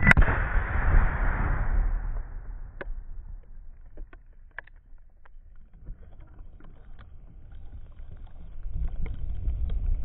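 Tannerite explosion blowing apart a rotten tree stump: one sharp, extremely loud blast at the start that echoes and fades over about two seconds. Scattered light ticks follow until the end.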